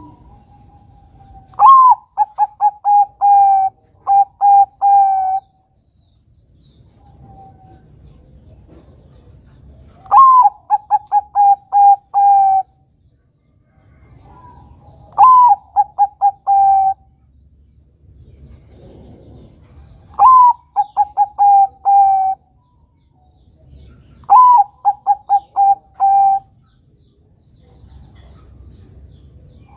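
Bangkok-type zebra dove (perkutut) singing: five song phrases a few seconds apart, each a higher opening note followed by a quick run of short, even coos.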